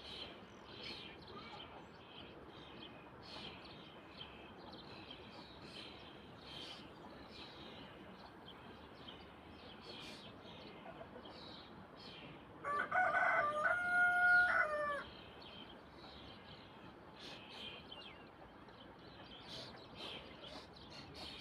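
A rooster crows once, a loud call of about two seconds midway, over a steady background of short, repeated chirps.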